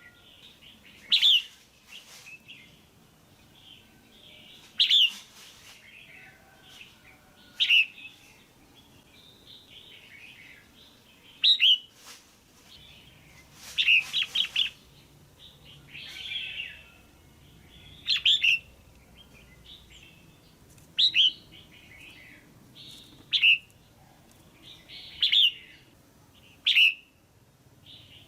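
Female red-whiskered bulbul calling: short, sharp chirping calls every two to three seconds, some in quick runs of two or three, with softer chirps in between. The calls are the kind used to stir a male to sing or to pair birds.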